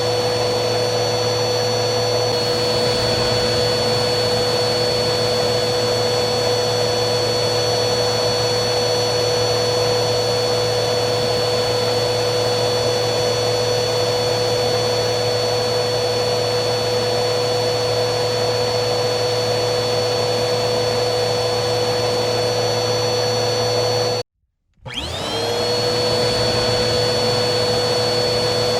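Vacuum cleaner motor running steadily, a whooshing rush with a high whine over it. Near the end it cuts out suddenly for about half a second, then spins back up with a rising whine and settles at full speed.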